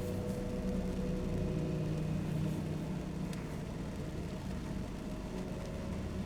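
Car driving in the rain: steady engine hum with tyre and road noise.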